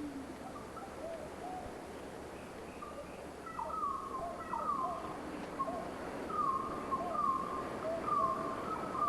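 Birds calling: a repeated series of short notes, each sliding down in pitch, begins about three and a half seconds in, with fainter, lower notes between them.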